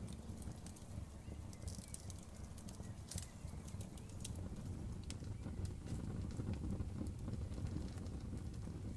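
Campfire burning, with irregular sharp crackles and pops over a steady low rumble; the pops come thickest about two to three seconds in.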